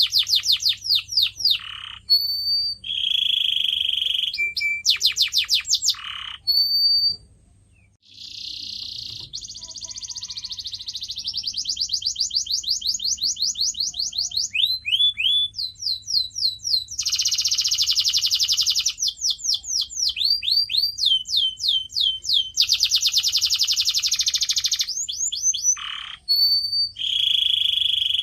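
Domestic canary singing a long song of fast trills and rolls, runs of quick repeated falling whistled notes, and buzzy rapid rolls. There is a short pause about seven to eight seconds in.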